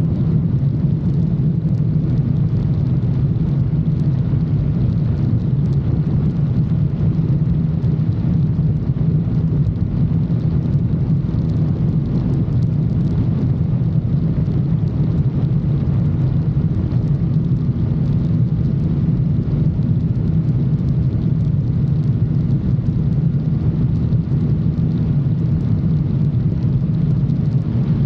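Motorcycle engine running at a steady cruising speed, a low, even drone that holds the same pitch throughout, with no revving or gear changes.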